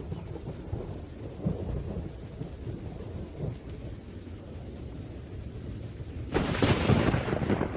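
Thunderstorm: steady rain with a continuous low thunder rumble. About six seconds in, a louder crackling peal of thunder breaks out and lasts over a second.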